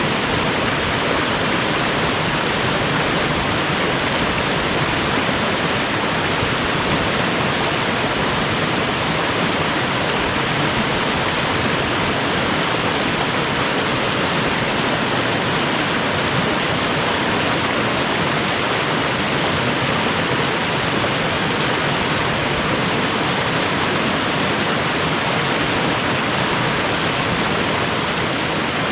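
Steady, unbroken rush of running water from a mountain creek.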